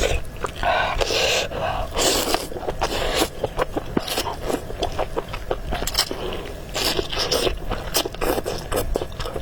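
Close-miked eating of noodle soup: bursts of slurping and chewing with many irregular wet mouth clicks.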